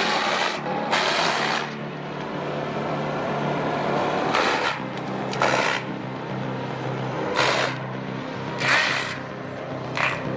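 A machine engine running steadily, with about seven short hissing bursts of noise breaking over it every second or two.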